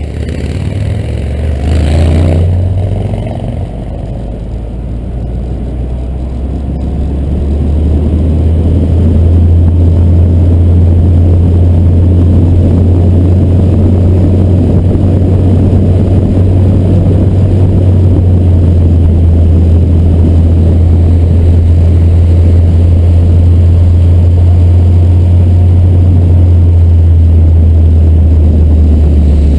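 Fiat Barchetta's 1.75-litre four-cylinder engine and road noise as the car drives. There is a brief rise in revs about two seconds in, then a steady low drone that grows louder by about nine seconds and holds.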